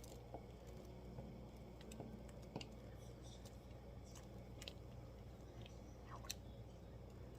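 Near silence over a low steady hum, with a few faint scattered clicks and scrapes as chopped chicken is scraped from a chopper container into the soup pot.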